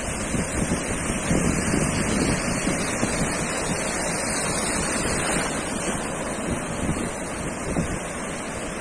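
Ocean surf washing onto a beach, a steady rush with a wave breaking and hissing up the sand about halfway through. Wind buffets the microphone with a low rumble.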